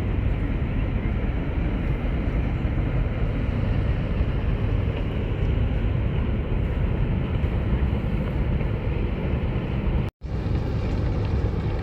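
Steady low rumble of wind buffeting the microphone, mixed with the engine noise of passing ship traffic. The sound cuts out for a split second near the end.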